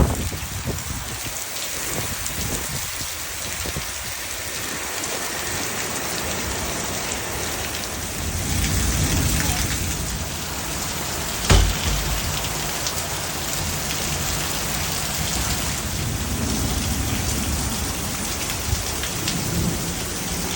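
Heavy rain pouring steadily in a thunderstorm, with a low rumble of thunder building about halfway through and a single sharp bang a little after it.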